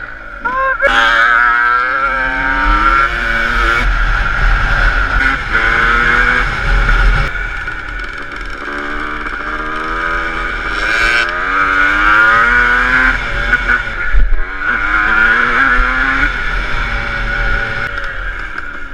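Motocross bike engine revving up and down repeatedly as the bike is ridden, with a low wind rumble on the microphone.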